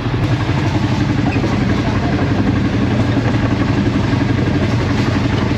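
A moving passenger train's running noise heard inside the carriage by an open door: a steady, loud rumble of wheels on the rails.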